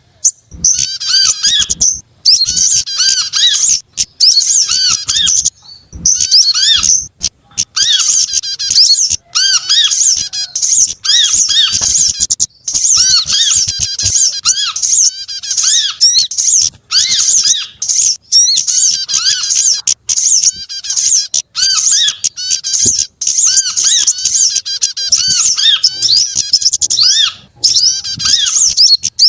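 Small songbirds calling loudly and busily in a mixed bird-lure recording: rapid high-pitched twittering and chirps in bursts with short gaps between them, over a lower repeated arched note.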